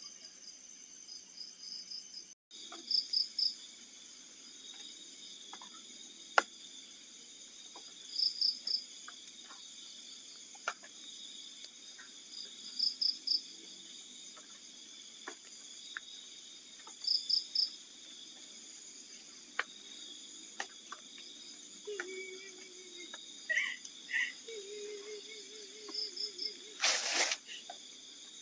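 Night insects, crickets, chirping: a short three-pulse chirp repeats about every four to five seconds over a steady high-pitched trill. Near the end a low wavering sound and a brief burst of noise come in.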